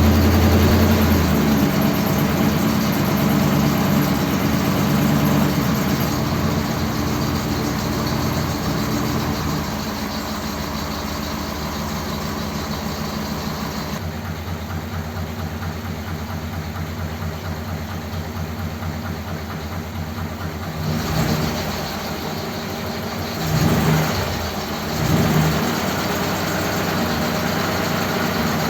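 1957 Ford Thunderbird V8 running just after starting, at a fast idle that settles to a lower, steady idle about ten seconds in. Near the end the throttle is blipped briefly three times.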